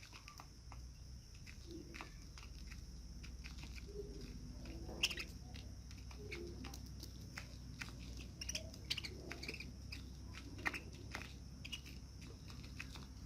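Budgerigars chirping in short, scattered calls, mixed with many sharp little clicks.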